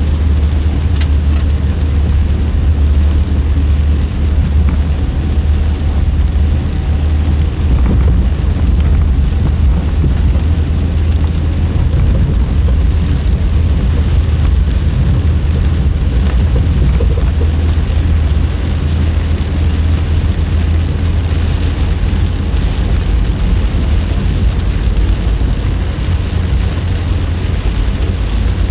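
Car driving on a wet road in heavy typhoon rain: a steady, loud low drone of tyres and engine under an even hiss of rain and spray.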